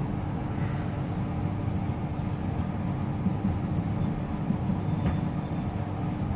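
Metro train running, heard from inside the carriage: a steady rumble with a constant hum running through it.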